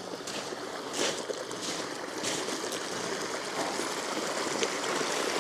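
Water running out of the side of a small outlet structure: a steady trickling rush that grows a little louder near the end.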